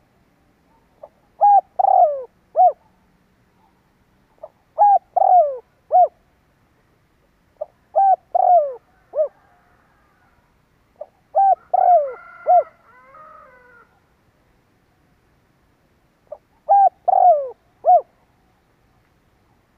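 Spotted dove cooing: five phrases, each of several quick notes that fall in pitch, a few seconds apart. A fainter, higher call overlaps the fourth phrase.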